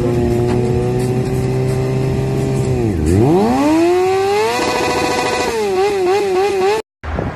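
Motorcycle engine held at high revs. Its pitch drops sharply about three seconds in, climbs quickly back up and holds, then wavers rapidly up and down before cutting off abruptly near the end.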